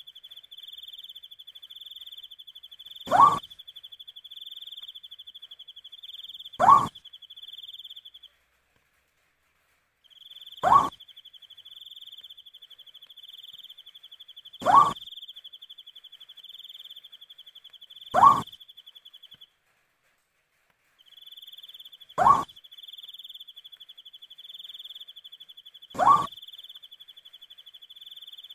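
An owl giving a short, rising call seven times, about every three and a half to four seconds, over a steady high chirring of crickets that breaks off twice for a couple of seconds.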